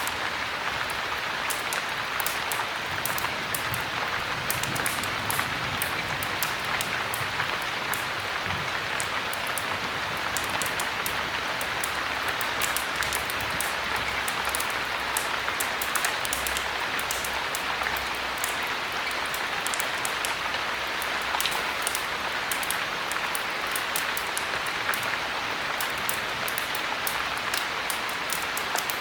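Heavy rain falling in a steady hiss, mixed with a fire crackling in a fireplace: many small, sharp crackles throughout.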